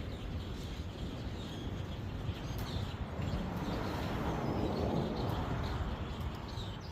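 Outdoor ambience: a steady rushing noise, strongest in the low end and swelling about four to five seconds in, with a few faint bird chirps.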